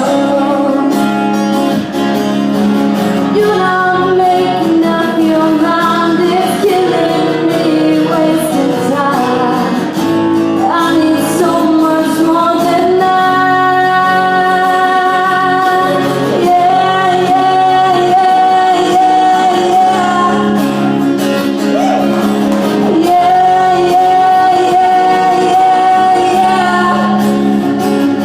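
A woman singing a country song with acoustic guitar accompaniment, holding several long notes.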